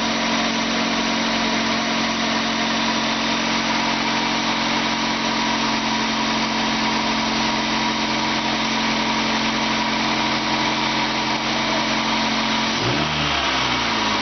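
Used 1998 Honda Accord engine idling steadily on test, then revved up and back down once near the end.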